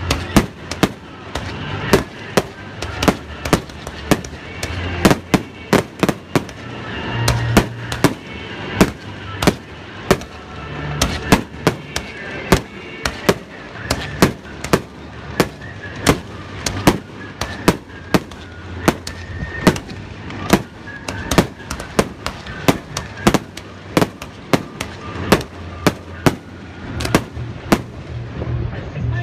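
Aerial fireworks shells bursting one after another in a steady run of sharp bangs, roughly one or two a second.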